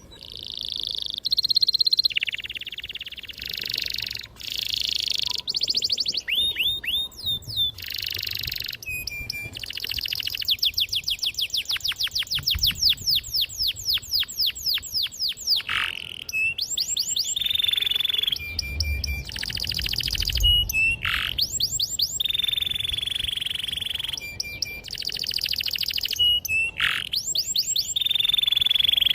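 Domestic canary singing a long, vigorous song of high-pitched phrases: fast trills and rapid rolls alternating with held buzzy notes, each phrase a second or two long with short breaks between.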